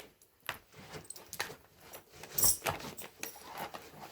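A dog's collar tags jingling and rattling in short, scattered bursts, loudest about two and a half seconds in, with small clicks between.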